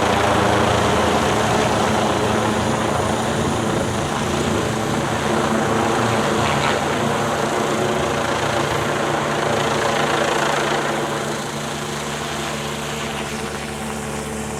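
Helicopter circling overhead: a steady rotor and engine drone that grows fainter about eleven seconds in.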